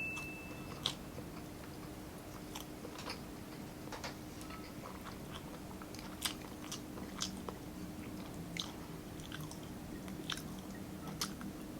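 Close-miked chewing of a mouthful of rice and grilled meat, with soft irregular mouth clicks and smacks over a faint steady hum.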